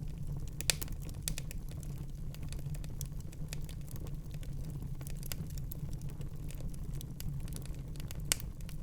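Wood fire crackling in a fireplace: irregular sharp crackles over a steady low rumble, with two louder pops, one about a second in and one near the end.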